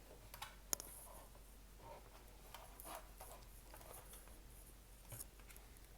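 Faint handling noises from the opened wireless access point's plastic and metal parts: light scattered clicks and rubbing, with one sharper click about three-quarters of a second in.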